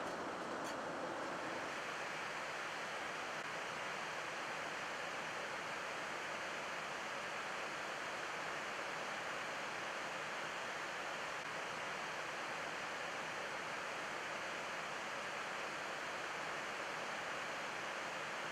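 Airbus A330-300 flight deck in cruise: a steady rush of airflow and air-conditioning noise, even and unchanging.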